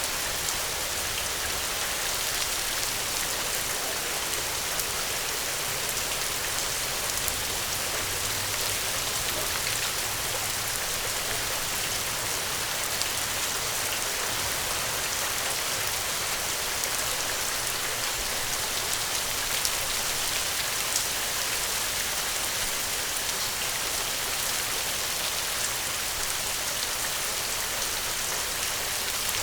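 Steady rain falling, a constant even hiss with scattered small ticks.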